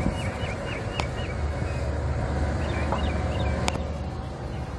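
Bird chirps in short quick series, over a steady low outdoor rumble, with two sharp clicks.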